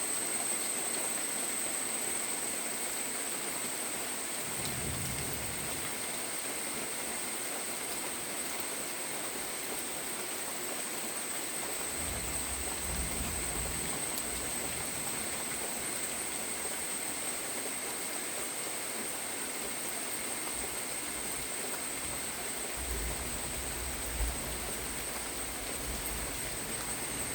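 Steady rain falling, an even hiss with a thin high tone running through it. Brief low rumbles come three times: about five seconds in, around twelve to fourteen seconds, and again near the end.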